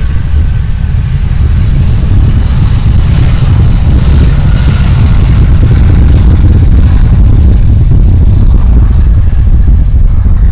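Jet aircraft engines running loud: a heavy low rumble, with a higher hiss that swells about two seconds in and fades away after about seven seconds, like a plane passing close by.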